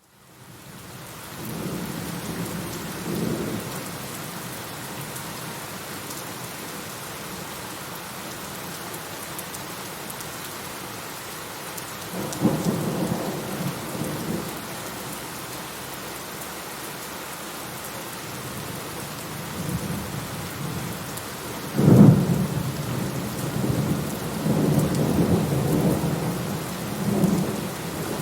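Steady rain falling, fading in at the start, with rolls of thunder rumbling over it a couple of times. The loudest is a sharp thunderclap about 22 seconds in that rolls on for several seconds.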